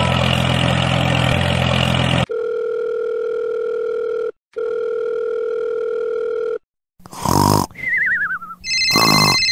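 A steady engine-like hum cuts off about two seconds in, followed by a telephone tone effect: a steady two-tone beep that stops briefly and resumes, about two seconds each time. Near the end come short cartoon sound effects, including a warbling falling whistle.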